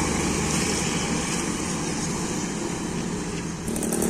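Heavy truck passing on the road, a steady mix of diesel engine and tyre noise. About three and a half seconds in, a rattling engine with a fast, even ticking comes in.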